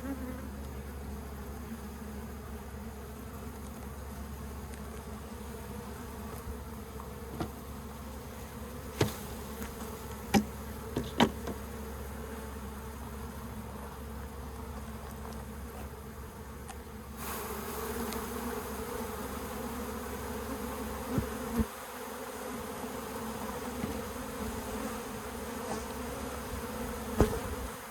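A honeybee colony buzzing steadily as its comb is handled during a live removal, with a few sharp knocks now and then. The buzzing gets louder a little past halfway.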